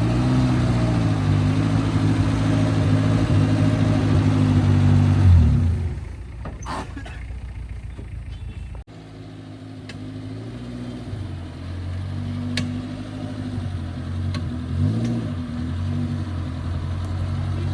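Off-road 4x4's engine running, its pitch rising and falling with the revs. It is loudest about five seconds in, then quieter, with an abrupt break about nine seconds in before it carries on.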